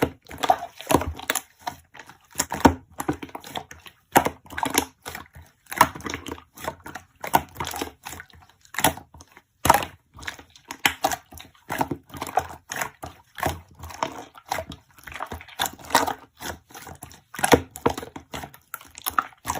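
Slime being squeezed, stretched and poked by hand, making irregular sticky clicks, pops and crackles several times a second.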